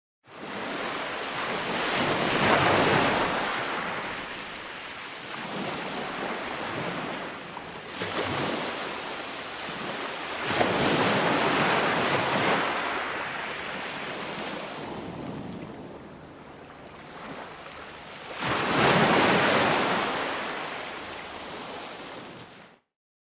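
Ocean waves breaking and washing on a shore: a rushing hiss that swells and fades in about three big surges several seconds apart, with smaller ones between. It starts a moment in and cuts off suddenly near the end.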